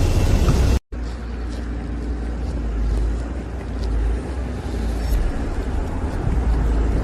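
Steady low rumble with a hiss over it, broken by a brief cut to silence about a second in.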